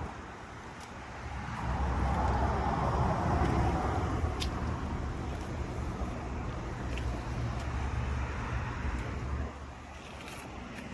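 A car engine running with a low rumble that grows louder about a second and a half in, holds steady, then drops away near the end, with a few faint clicks.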